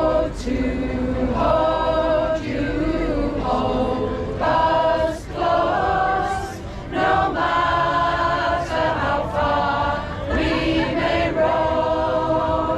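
A choir singing, one phrase after another with short gaps between.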